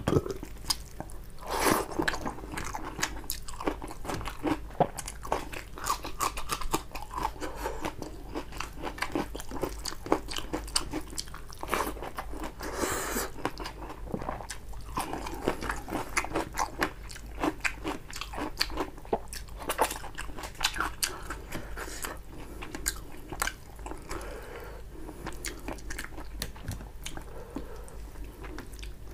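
Close-miked eating: wet chewing and biting of rice and fish curry, with crisp crunches about halfway through as raw cucumber is bitten.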